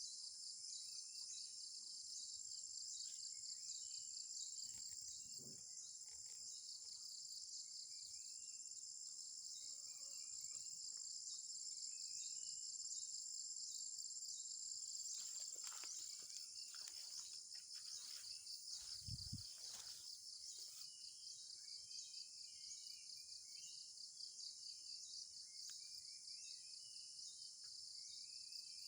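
A steady, high-pitched chorus of forest insects trilling without a break, with short chirping calls repeating over it. A few faint knocks or rustles come about halfway through.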